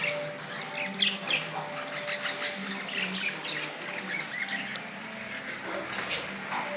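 Budgerigars chirping and chattering: many short, quick chirps, with a couple of sharp clicks about six seconds in and a faint steady hum beneath.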